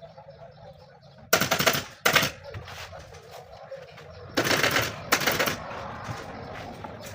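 Pneumatic upholstery staple gun firing in rapid bursts, four short volleys of quick staples, two about a second in and two more about four to five seconds in.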